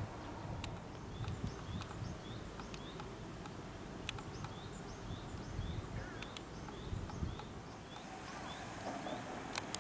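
A short, high rising chirp repeated about twice a second, over a low rumble of outdoor noise, with a few scattered clicks; the chirping stops a couple of seconds before the end.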